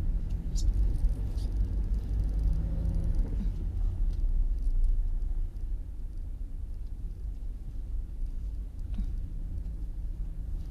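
A car's steady low rumble, with a few faint clicks, easing off slightly about halfway through.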